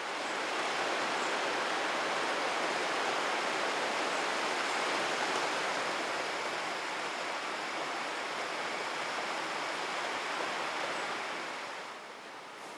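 Steady rushing water, an even hiss, starting abruptly and fading out near the end.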